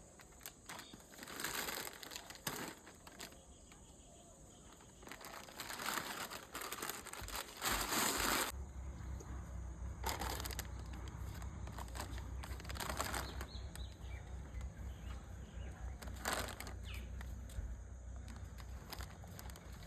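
Irregular bursts of crinkling and rustling, as of a plastic sweet wrapper being handled, with a low steady hum setting in about eight seconds in.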